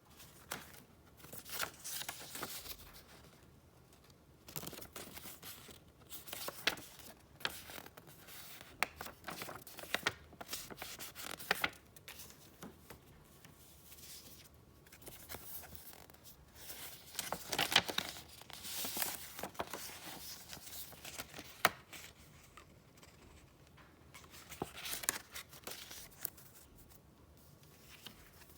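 Paper and paper wrappings being handled close up, in irregular bursts of rustling and crinkling with a few sharp ticks.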